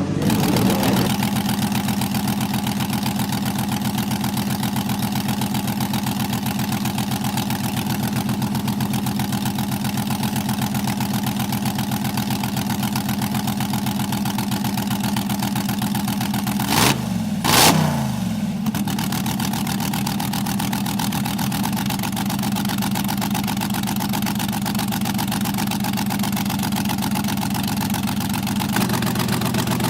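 Vintage race car engine idling steadily with an even beat, blipped twice in quick succession a little past halfway.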